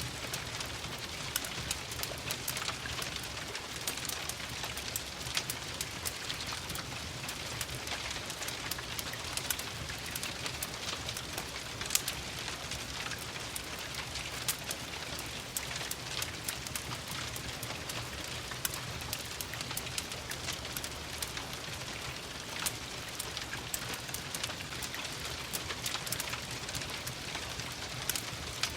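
Steady rain pattering, with a wood fire crackling in sharp irregular pops through it.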